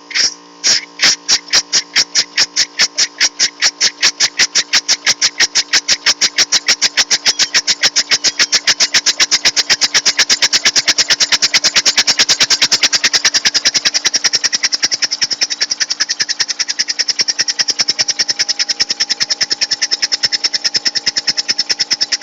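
Home-made steam traction engine running, its exhaust chuffing in an even beat that speeds up from about two chuffs a second to a fast, steady beat within the first ten seconds or so. A steady hum runs underneath.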